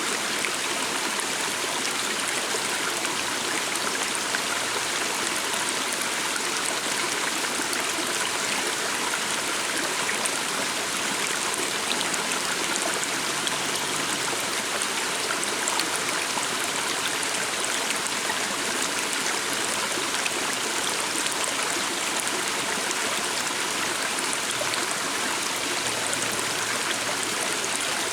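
A small stream flowing steadily over stones, a continuous splashing and trickling rush.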